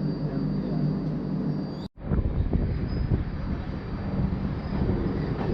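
Indian Railways LHB express train running after pulling out of a station: a steady rumble and hum, cut off for an instant about two seconds in, then a rougher rumble with scattered knocks from the wheels on the track.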